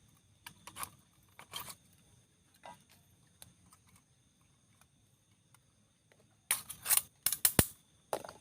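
Sharp clicks and snaps from hands opening a package of just-cooked food: a few scattered clicks at first, then a loud cluster of snaps near the end.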